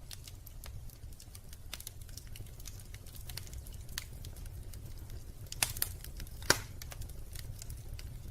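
Wood fire in a fireplace crackling, with irregular sharp snaps and pops over a low steady rumble; a few louder pops come about two-thirds of the way through.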